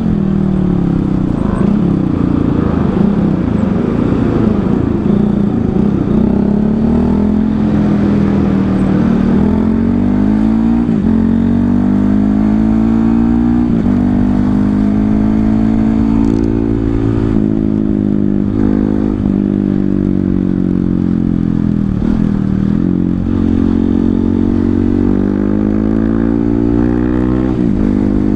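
Honda CRF 150L single-cylinder engine running through a Tridente F19 full-system exhaust, its honeycomb baffle ground out, set to street mode, heard from on the bike while riding. The engine note climbs and drops again and again as the rider revs and eases off through the gears.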